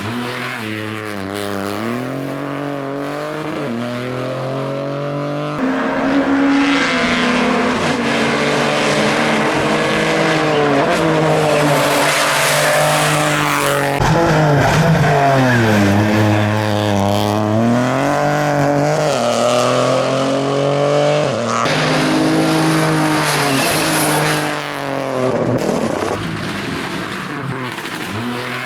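Rally car engine revving hard, its pitch climbing and dropping again and again with gear changes and lifts. It grows louder about six seconds in and eases off near the end.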